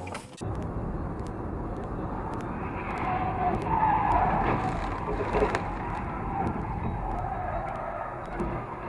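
Car driving, heard from a dashcam, with a stretch of tyres squealing and skidding in the middle that is the loudest part.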